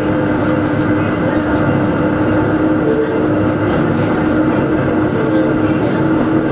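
Hakone Tozan Railway Moha 1 electric car No. 106, with nose-suspended SE121-A traction motors, heard from inside while running. A steady rumble carries a continuous whine in two tones from the motors and gears.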